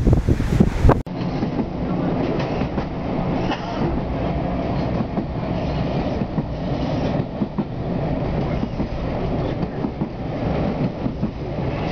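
Wind buffeting the microphone for about a second, then a sudden cut to the steady rumble of a steam-hauled passenger train's carriage running along the track, heard from inside, with light clicks from the wheels over the rails.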